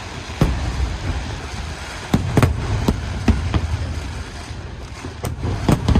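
Aerial fireworks shells bursting: about eight sharp booms at uneven intervals, several in quick succession in the middle, over a steady low rumble.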